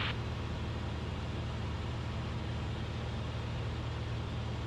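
Cessna 172RG's four-cylinder Lycoming O-360 engine and propeller droning steadily in level cruise, heard inside the cockpit.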